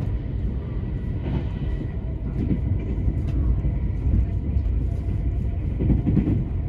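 DSB IR4 (Litra ER) electric multiple unit running along the line: a steady low rumble of wheels on rails, with faint scattered ticks.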